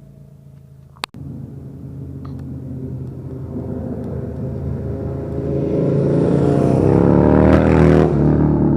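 Motorcycle engine approaching and passing by, growing steadily louder and at its loudest near the end, its pitch bending as it goes past. A sharp click sounds about a second in.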